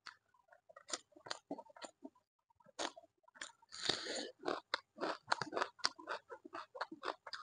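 Close-up chewing of beef masala curry eaten by hand: a quick, uneven run of short smacking clicks and crunches, busiest about four seconds in.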